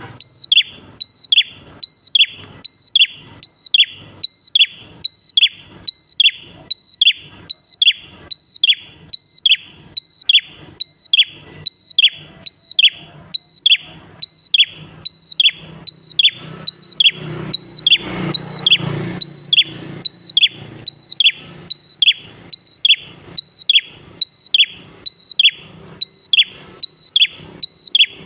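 Prinia (prenjak) calling in a steady, unbroken series: short sharp notes that drop quickly in pitch, repeated evenly about one and a half times a second. A faint low background noise swells briefly about two-thirds of the way through.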